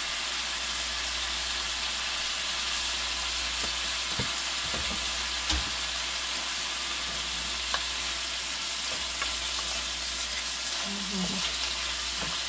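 Shrimp frying in a pan: a steady sizzle, with a few faint clicks about halfway through.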